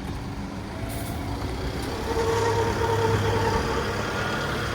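An engine running steadily with a humming drone that grows louder about two seconds in.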